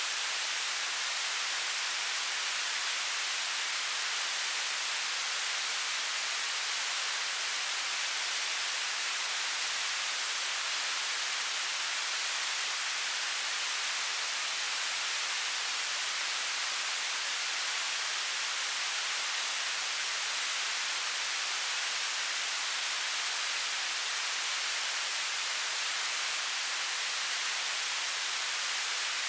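Television static: an even, steady hiss of white noise, strongest in the high frequencies, with no change throughout.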